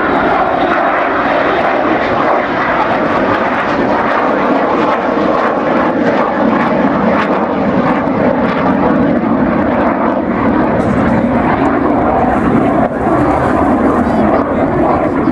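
Jet noise from a Eurofighter Typhoon's twin EJ200 engines, a loud steady rush through the whole stretch.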